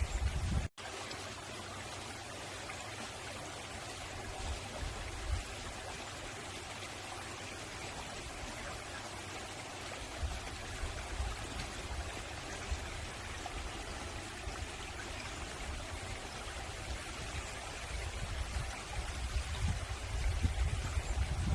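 Mountain valley stream flowing over rocks, a steady rushing babble with a low rumble that swells and fades. The sound drops out for an instant about a second in.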